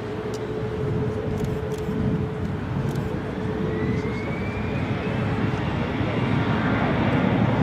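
The four Rolls-Royce Trent 500 jet engines of an Airbus A340-500 rumbling, with a steady hum. A whine rises in pitch from about four seconds in as the engines spool up, and the sound grows a little louder near the end.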